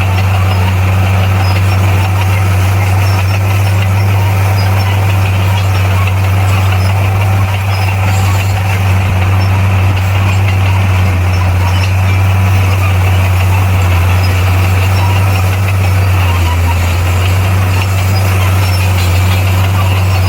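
Bulldozer's diesel engine running steadily, a constant low drone.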